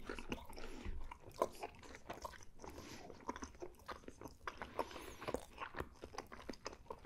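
Close-miked chewing of a bite of thick-crusted pepperoni pizza: an irregular run of short crunches and mouth clicks.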